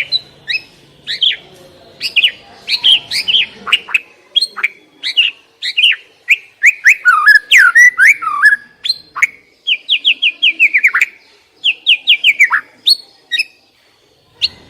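Songbird song played as a lure recording for white-rumped shamas: a rapid, varied run of sharp chirps and whistles, many sliding downward in pitch, breaking off briefly near the end.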